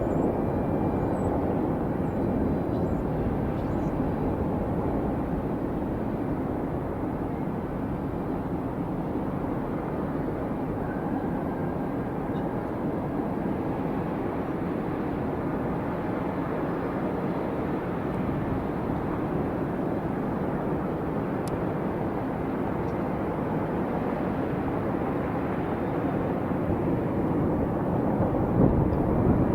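Jet airliner engine noise: a steady, even rush that swells slightly near the end.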